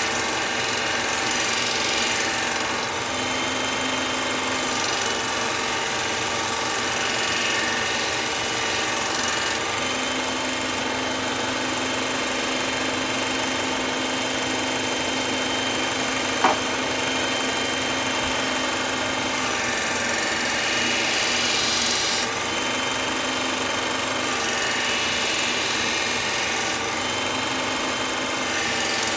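Powered knife-sharpening machine running steadily as a kitchen knife blade is ground on it, the tone shifting every few seconds as the blade is pressed and moved along it. One sharp click about halfway through.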